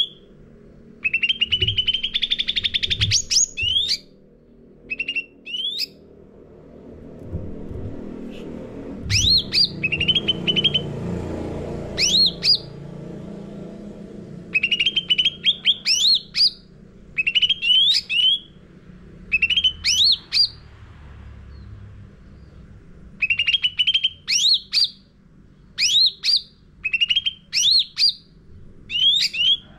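Cucak ranting singing: sharp, sweeping whistled chirps delivered in quick clusters, with a rattling trill near the start and short pauses between phrases.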